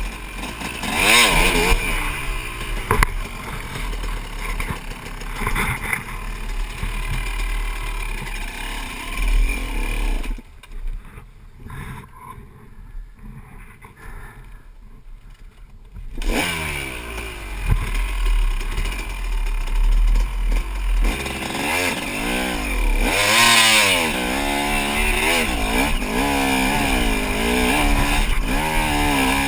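Two-stroke Honda CR250 dirt bike engine revving hard, its pitch rising and falling repeatedly as the throttle is worked. About ten seconds in, it drops away to a much quieter level for several seconds, then picks up again. Near the end it revs in quick, repeated swings.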